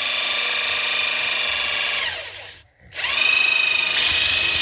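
Handheld electric drill spinning sandpaper wrapped around a small shaft, running at full speed with a steady whine. About two seconds in it winds down, and after a short pause it spins back up and runs again.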